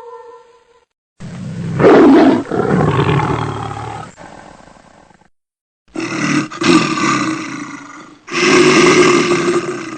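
A big cat roaring: three loud, rough roars. The first is the longest, about four seconds, and the other two come close together, each fading off at its end.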